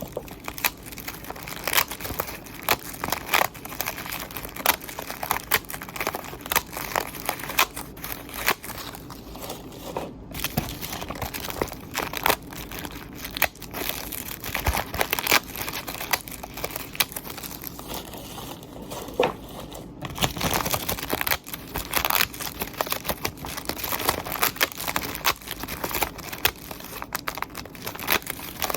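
Continuous crinkling and crackling, dense with irregular sharp clicks, like crinkly material being handled.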